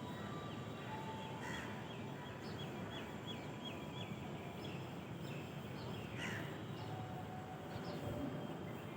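Birds chirping and calling over a steady background of outdoor noise, with a quick run of repeated chirps a couple of seconds in.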